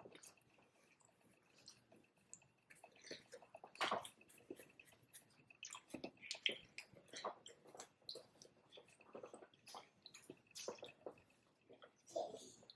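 Close-miked mukbang chewing of cheeseburger egg rolls: quiet, irregular wet mouth smacks and clicks.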